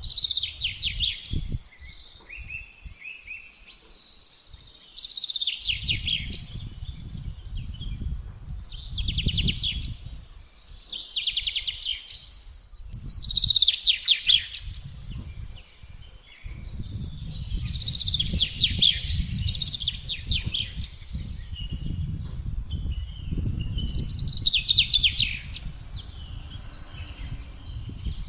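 A songbird singing the same short, fast-trilled phrase again and again, one every few seconds. Wind rumbles low underneath in gusts that come and go, dropping away at times.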